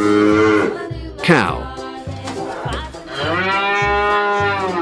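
Cow mooing: one long, arched moo in the second half, over background music with a steady beat.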